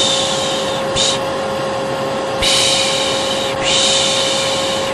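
A steady vacuum cleaner drone with a constant whine, overlaid by a person shushing 'piş piş' in repeated hissing breaths, four times, some short and some about a second long: the lulling shush used to soothe a baby.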